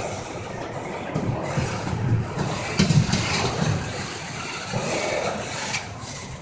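Intermodal freight train rolling by, an uneven low rumble.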